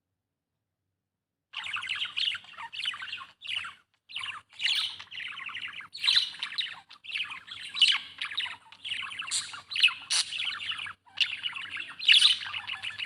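Pet budgerigar chattering: a dense warble of rapid chirps and squawks in runs with short breaks. It starts about a second and a half in and cuts off abruptly at the end.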